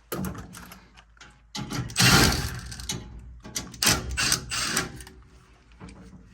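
Power driver spinning screws out of a furnace's sheet-metal bracket, running in several short bursts.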